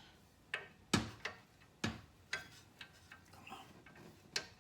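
Hand tools clicking and knocking against the car's bolts and suspension as a wrench is worked on a stuck bolt: about eight short, sharp clicks at uneven spacing, the loudest about a second in.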